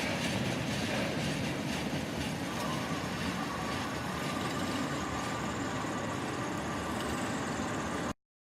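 Freight train cars rolling past on the rails, a steady rumble with the wheel clatter fading away, cutting off abruptly near the end.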